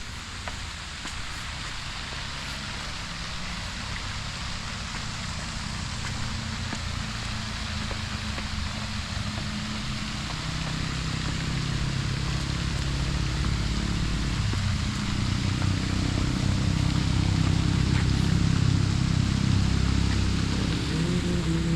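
Steady outdoor hiss with a low vehicle engine rumble that grows louder over the second half, as a vehicle draws near.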